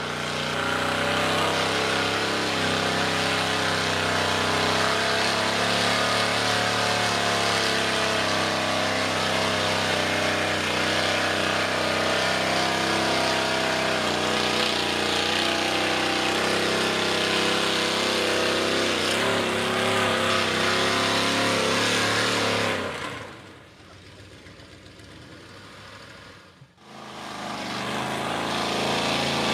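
Ford mega truck's 460 big-block V8 running loud through open headers, its pitch wavering as it is driven through the mud. About 23 seconds in the sound falls away sharply for a few seconds, then comes back up to full level.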